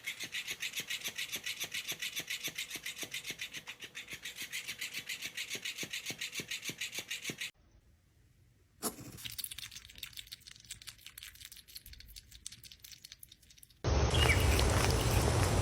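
Rhythmic scratching, about five strokes a second, that stops suddenly partway through; after a short silence come fainter, irregular scratching clicks, and near the end a much louder outdoor noise cuts in.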